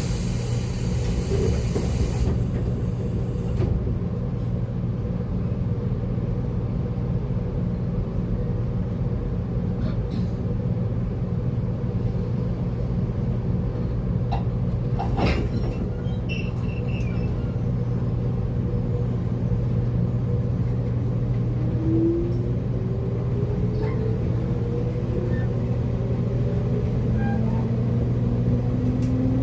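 Inside a JR Kyushu 811 series electric train's motor car: a steady low electrical hum with a short hiss of air near the start. About two-thirds of the way through, the traction motors begin to whine, rising steadily in pitch as the train pulls away.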